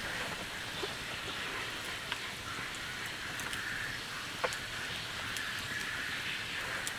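Steady rain falling, with a few single drops striking close by as sharp ticks, the clearest about two seconds and four and a half seconds in.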